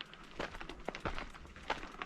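Irregular crunching and clattering over rough, gravelly ground, a few sharp knocks a second, with a low wind rumble on the microphone.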